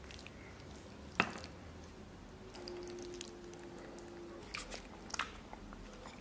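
Close-up chewing of soft braised beef rib, with one sharp click about a second in and a few lighter clicks near the end.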